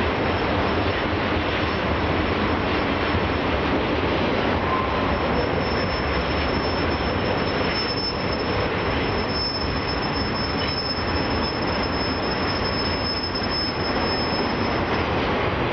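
Union Pacific autorack freight cars rolling by on a downgrade: a steady, loud rumble of steel wheels on rail, with a thin, high wheel squeal that comes up clearly in the middle and dies away near the end.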